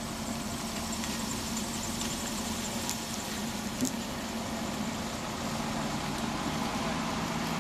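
Car engine running slowly with a steady low hum under outdoor street noise, and one short knock just before the four-second mark.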